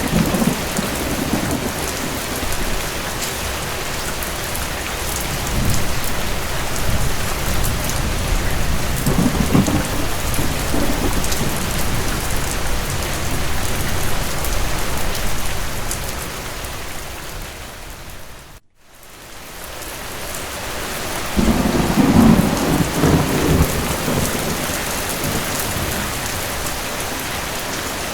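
Steady rain with rolling rumbles of distant thunder, the strongest rumble coming late. About two-thirds of the way through, the rain fades away to silence for a moment and then fades back in.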